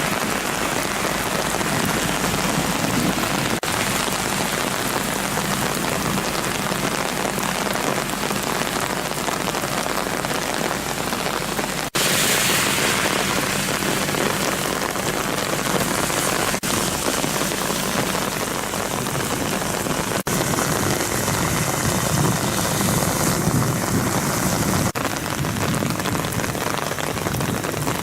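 Heavy rain pouring down in a steady hiss during a thunderstorm. The sound jumps abruptly several times and is loudest for a while from about twelve seconds in.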